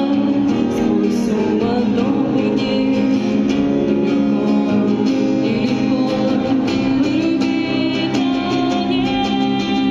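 A woman singing a Soviet pop song to her own strummed acoustic guitar, with sustained sung notes over steady strumming.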